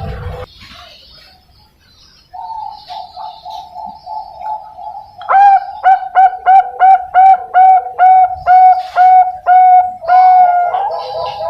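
Zebra dove (Bangkok perkutut) singing: a quick run of soft low coos from about two seconds in, then a loud string of about fourteen clipped cooing notes, roughly three a second, ending in a longer note.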